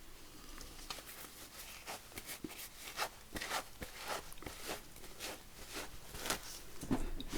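Light, irregular clicks, taps and rustles of stamping supplies and paper being handled on a craft table, about one or two small knocks a second.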